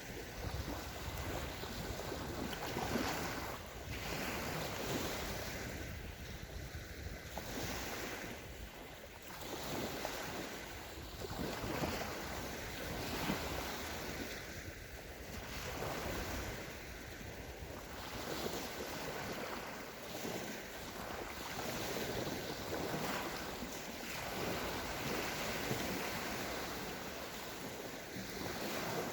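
Small waves of the Sea of Azov washing onto a sandy beach, swelling and easing one after another every few seconds, with wind rumbling on the microphone.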